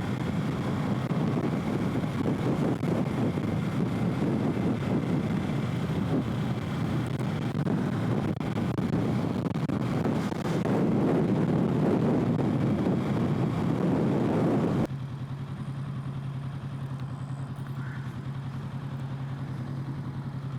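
Kawasaki Z650 parallel-twin engine and wind rush at riding speed, picked up by a helmet-mounted microphone. About three-quarters of the way through the sound drops suddenly to a quieter, steady engine hum.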